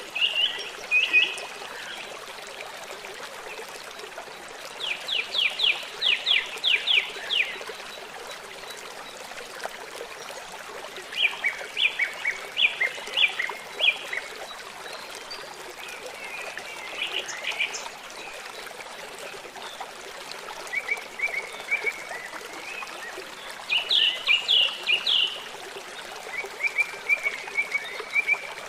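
Songbirds singing short phrases every few seconds, some of them rapid trills, over the steady rush of a flowing river.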